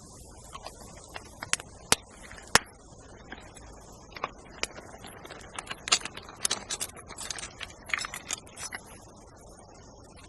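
Sharp clicks, knocks and light scrapes of small hard objects being handled: two loud knocks about two seconds in, then a dense, irregular run of clicks in the second half, over a steady high hiss.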